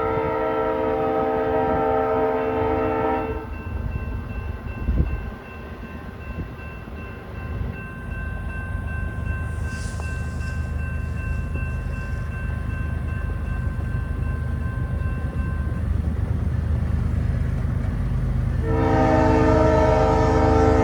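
Freight locomotive air horn sounding a chord-like blast for about three seconds, then again near the end. Between the blasts the diesel locomotives' low rumble grows steadily louder as the train approaches, with faint thin steady tones over it.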